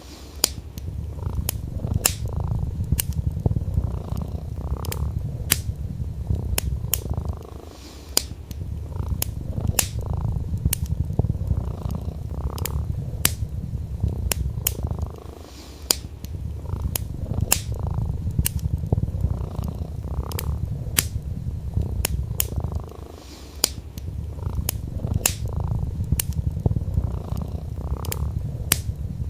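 A domestic cat purring, a low steady rumble that eases briefly every seven or eight seconds, mixed with the crackle of burning wood in a fireplace: sharp, irregular pops, several a second.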